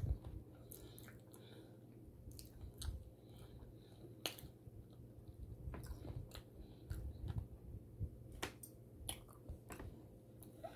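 A person chewing a mouthful of food with the mouth closed: soft wet mouth clicks and smacks, irregularly spaced, with small low thumps.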